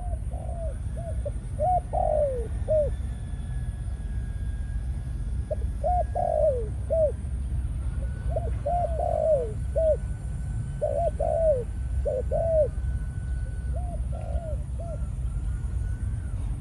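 Male spotted dove of the Malaysian cu gáy song strain cooing in repeated phrases of several short notes, about five phrases, over a steady low background rumble.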